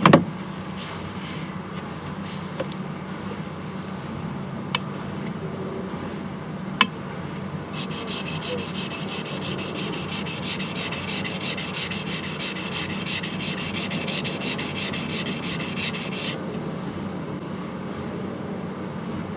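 Knife blade being ground on a whetstone: steady scraping, with quick, even back-and-forth strokes through the middle stretch and two light clicks before it. This is the bevel (kiriha) of a single-bevel knife being ground down to reset it.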